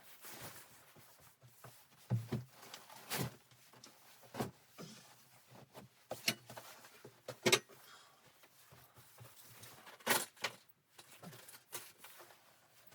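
A series of irregular knocks and clicks, about a dozen spread unevenly, with faint rustling between them.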